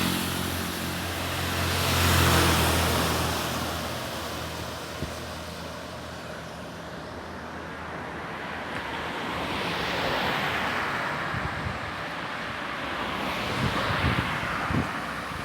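Road traffic going by: a car passes with a rising and fading engine hum about two seconds in, and more vehicles swell past later. Near the end, wind buffets the microphone.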